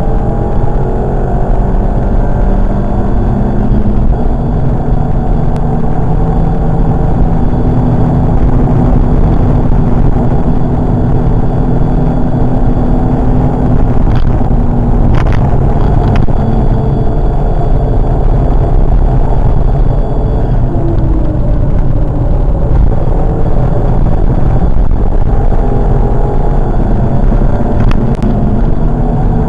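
Cabin sound of a Volkswagen Golf Mk5 1.4 TSI with a K&N cold air intake driven hard at speed: the turbocharged four-cylinder engine under load, its pitch rising and falling as the driver accelerates and lifts, over steady road and tyre noise. A few sharp clicks, one near the end as the gear lever is worked.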